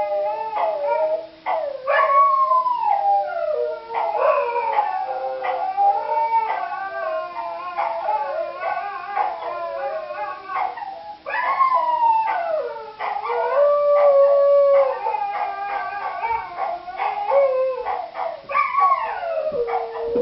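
Several dogs howling together in long, wavering, overlapping howls, with short yips and barks mixed in.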